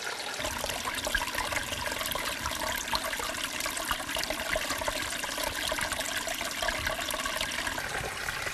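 Running water, a steady splashing flow like a stream or small waterfall. A low rumble joins it about half a second in.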